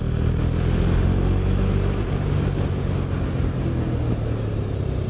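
KTM Duke motorcycle engine running under load while riding, getting louder over the first second and then holding steady, with wind noise on the microphone.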